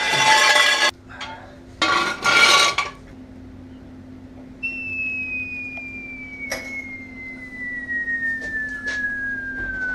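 Metal hand tools clatter twice as they are put away, in two loud bursts early on. About four and a half seconds in, a thin high whistle starts and slides slowly down in pitch without a break; it is loud enough to be mistaken for the floor jack whistling.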